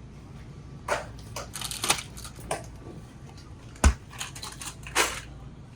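Irregular rustling and clicking handling noises, with one sharp knock about two-thirds of the way through.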